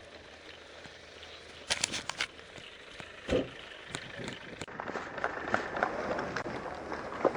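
Footsteps of a person walking or running outdoors, a dense run of short crunchy steps in the second half. A few sharp clicks come about two seconds in, with a single thump a little later.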